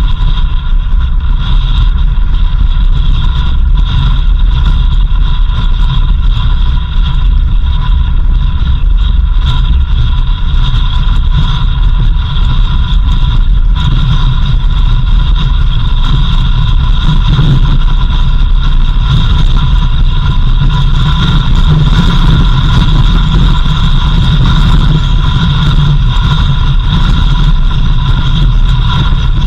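Vehicle running steadily along a road, a continuous low engine and road rumble with a few steady higher tones over it.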